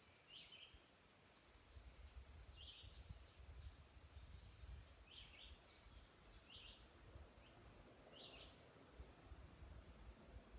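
Faint birdsong: one bird repeats a short call every second or two while thinner, higher notes come in quick runs between, over a low rumble of wind.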